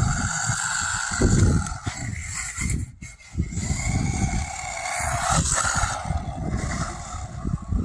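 Small 1/18-scale electric RC truck's motor and gearing whining, the pitch rising and falling as the throttle is worked, with uneven low rumbling underneath.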